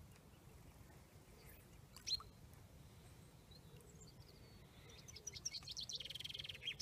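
Faint lakeside birdsong: a small songbird's quick high chirps from about five seconds in, running into a rapid twittering trill near the end, over a low steady background rumble. A single sharp chip or click about two seconds in.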